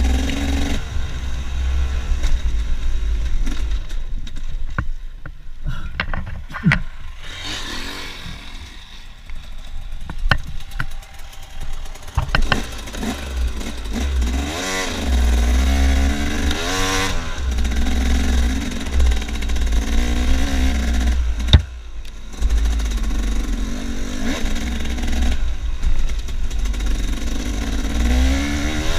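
KTM dirt bike engine on the move, its note rising and falling with the throttle, with rattles and knocks from the bike over the rough trail. One sharp knock stands out about three-quarters of the way through.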